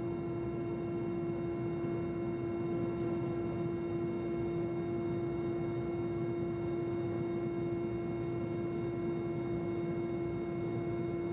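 Helicopter cabin noise in flight: a steady drone with one strong unchanging tone and fainter higher tones over a rushing low noise.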